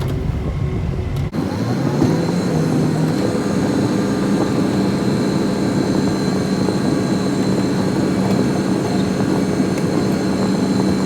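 Engine of a snow-plowing vehicle running steadily. About a second in the sound changes abruptly, and the engine pitch rises over the next two seconds before holding steady.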